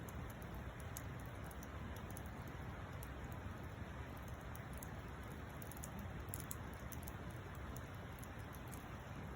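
Wood campfire burning, with many small irregular crackles and pops over a steady low hiss.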